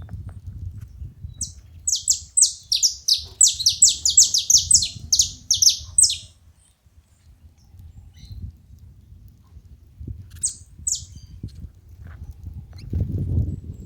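Saffron finch calling: a fast run of sharp, high chirps, each sweeping downward, about three a second for some four seconds, then two more chirps later on. A low rumbling noise runs underneath and swells near the end.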